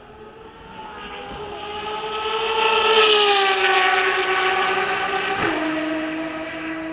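A Ferrari race car's engine passing at speed, growing louder to a peak about three seconds in and then fading, its pitch sagging slightly as it goes by. About five and a half seconds in, the note drops suddenly to a lower steady pitch.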